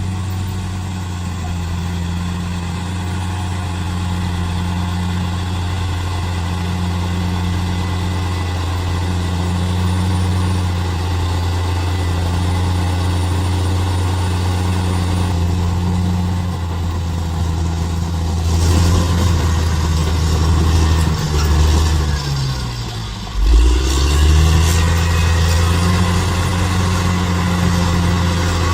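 Bulldozer's diesel engine running steadily. A little past twenty seconds its note sinks sharply, then picks back up.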